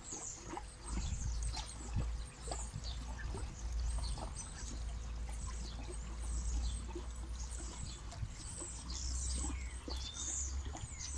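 Small birds chirping repeatedly, short high downward-sweeping calls, over a steady low rumble.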